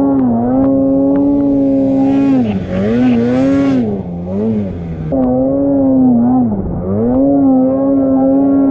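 Snowmobile engine running at high revs under the rider's throttle. Its pitch dips and climbs back several times, around a third of the way in, in the middle, and again near the end, as the throttle is eased off and reapplied.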